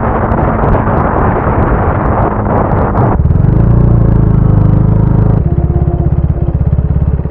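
Motorcycle riding with wind rushing over the microphone. About three seconds in the wind drops away abruptly, leaving the engine's steady note, which changes abruptly about two seconds later to an evenly pulsing idle.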